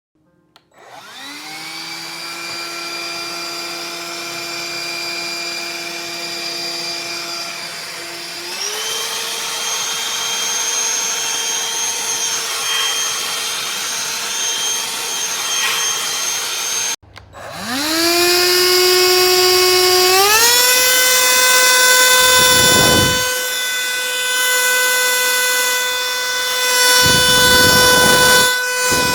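BLACK+DECKER Dustbuster cordless handheld vacuum motor spinning up to a steady whine, then stepping up to a higher pitch as it goes from low to high suction. About halfway through it cuts off suddenly and at once spins up again, climbing back to the high setting, with a few short, louder rushes of air near the end.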